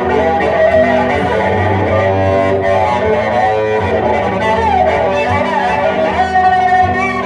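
Instrumental break of a live folk song: bowed cello playing a melody with sliding notes over a strummed guitar.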